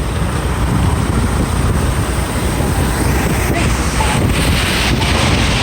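Wind buffeting the microphone in a steady, heavy rumble over the even hiss of rain and street noise.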